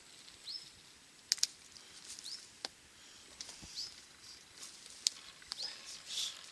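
A small bird chirping over and over, one short rising high note about every one and a half seconds, with a few sharp clicks in between.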